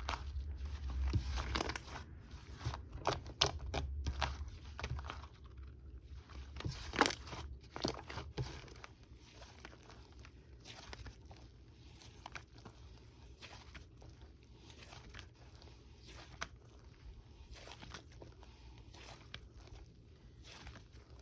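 Hands squishing, stretching and pressing a cream slime, giving many small sticky clicks and crackly pops. Busier and louder for the first eight seconds or so, then softer and sparser.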